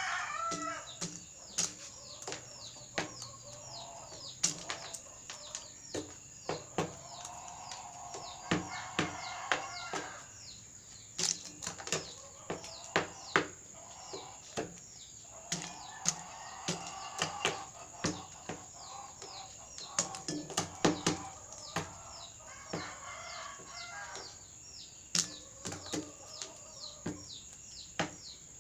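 Rooster pecking at and crunching nacho chips: sharp, irregular pecks and crunches, with a few short bursts of soft clucking.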